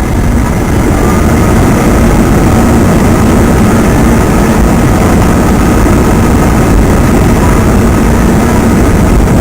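Jet airliner's engines in reverse thrust on the landing roll: a loud, steady roar with a faint high whine through it.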